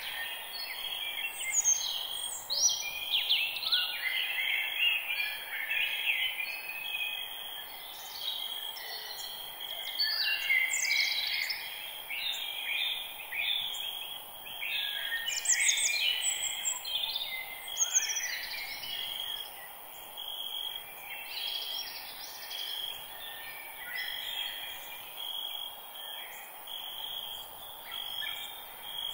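Many songbirds chirping and trilling at once in a forest chorus, over a steady high hiss and a constant thin high tone.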